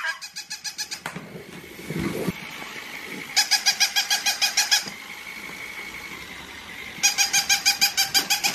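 Battery-powered interactive toy puppy running: three bursts of rapid electronic yapping, about ten pulses a second, over a steady high whine.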